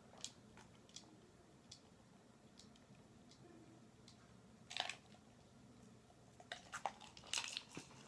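Quiet eating of candy: faint, scattered mouth clicks, a short crackle about five seconds in, and a cluster of small clicks and crackles near the end.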